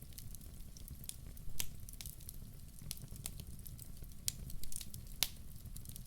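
Wood fire crackling in a fireplace: irregular sharp pops and snaps over a low steady rumble, the loudest pop about five seconds in.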